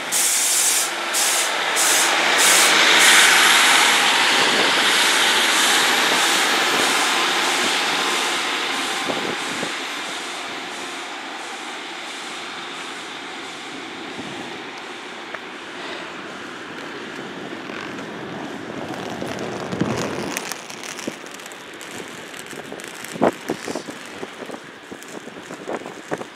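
Diesel multiple unit pulling out and accelerating away. Its engine and wheel noise is loudest a few seconds in, with a regular clicking from the wheels that quickens, then fades slowly as the train recedes. A few separate knocks come near the end.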